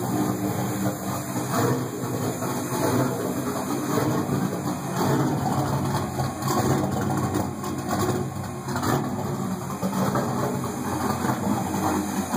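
Turbocharged 403 cubic inch iron-block LS V8 idling on its first start-up, a steady low rumble whose level wavers unevenly.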